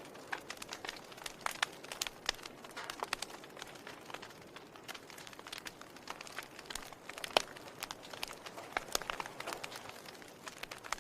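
Wood fire in a fireplace crackling: a steady soft hiss with irregular sharp pops and snaps, one louder pop about two-thirds of the way through.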